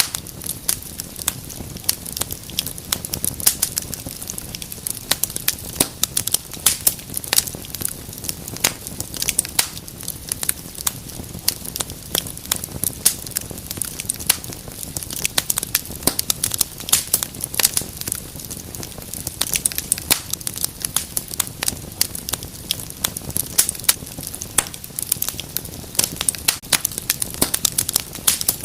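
Wood fire crackling steadily in a fireplace: dense, irregular sharp pops and snaps over a low, steady rush of flame.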